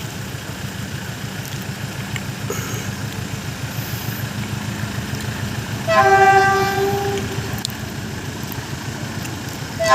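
Diesel train rumbling steadily with a low, pulsing engine sound, then one horn blast about six seconds in that lasts under two seconds, and a second blast starting at the very end.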